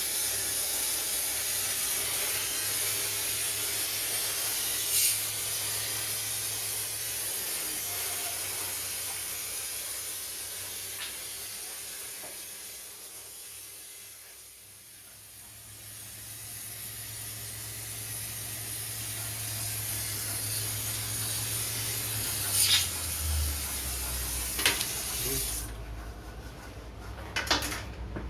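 Gas torch burning with a steady hiss while babbitt metal is heated for pouring a bearing. The hiss fades about halfway through, then builds again, and a few sharp clicks and knocks come near the end.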